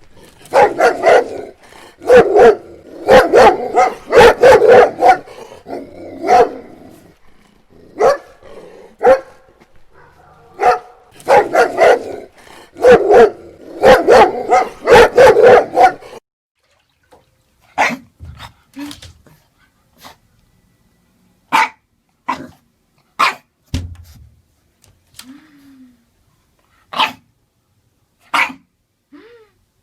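A Doberman barking in rapid, deep volleys for about the first sixteen seconds, then a Boston Terrier giving single, sharper barks one to two seconds apart.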